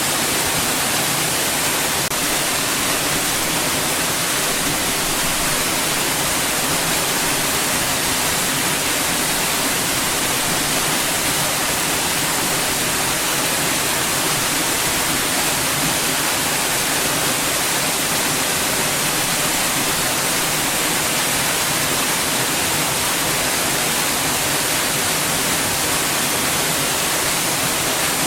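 Steady white noise: an even, unchanging hiss that is strongest in the high treble.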